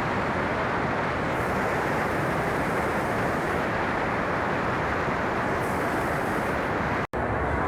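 Steady, loud rushing rumble of a vehicle under way, even throughout and without any distinct engine note; it cuts off abruptly about seven seconds in.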